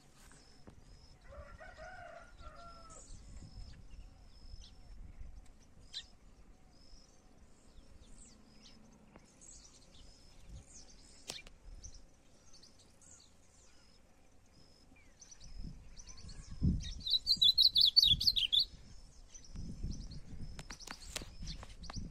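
Songbirds chirping: a steady run of short, high chirps, and about 17 seconds in a loud, rapid burst of twittering song lasting under two seconds. A rooster crows faintly about a second in.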